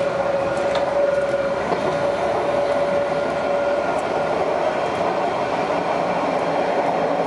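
Train running along the track: a steady rumble of wheels and running gear with a steady whine over it, and a few light clicks from the rails.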